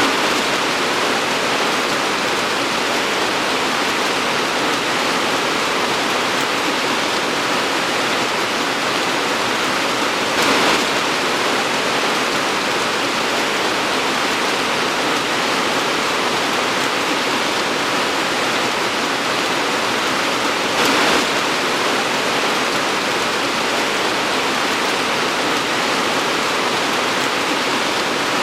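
Torrential tropical downpour: a dense, steady hiss of heavy rain, swelling briefly twice about ten seconds apart.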